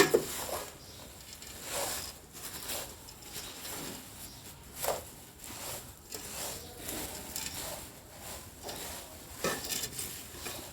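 A spatula stirring and scraping flattened rice (poha) frying in a little oil in a pan to crisp it: irregular strokes against the pan, the loudest right at the start.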